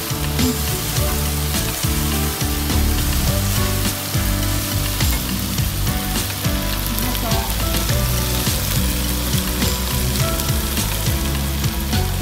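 Meat sizzling steadily as it is stir-fried in a nonstick frying pan, with light scrapes and taps of a spatula turning it.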